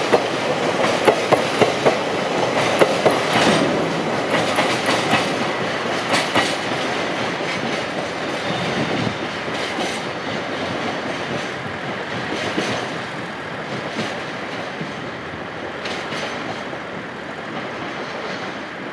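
A train running past, its wheels clattering over the rail joints in sharp clicks. The clicks thin out and the sound slowly fades as the train draws away.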